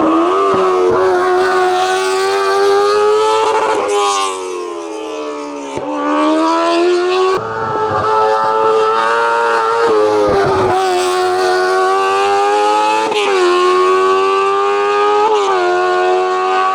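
Racing car engine at full throttle, held at high revs, its pitch dropping and climbing back several times as it lifts and shifts gear.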